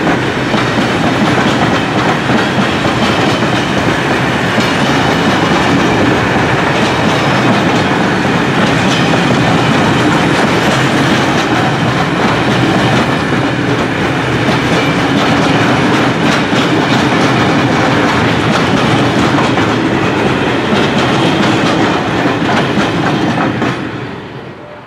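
Freight train of covered hopper wagons rolling past close by: a loud, steady noise of wheels on the rails, with many small clicks as the wheels pass over the track. It falls away quickly near the end as the last wagon clears.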